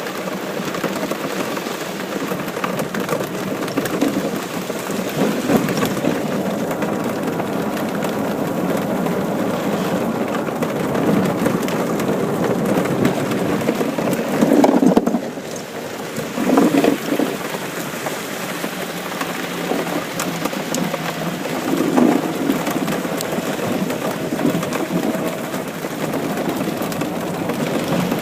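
Steady rain during a thunderstorm, with several short rumbling swells of thunder, the loudest about halfway through.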